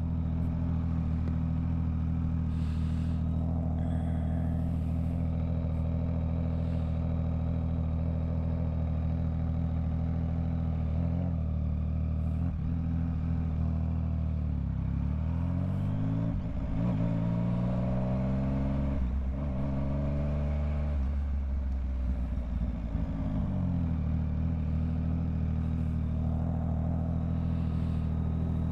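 Yamaha MT-09's inline-three engine running at a steady cruise. About halfway through, the pitch drops and climbs again a few times as the bike slows and picks up speed, then it settles back to a steady note.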